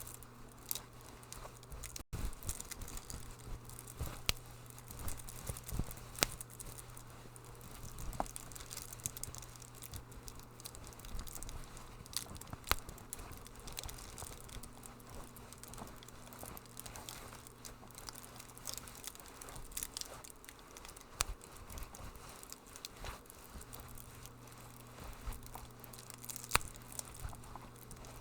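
Wood fire crackling: sharp pops and snaps at irregular intervals over a soft hiss, with a faint steady low hum underneath.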